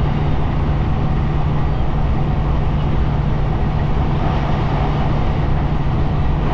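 Steady drone of a Kenworth K200 cabover road train cruising, heard from inside the cab: Cummins diesel engine running evenly under road noise.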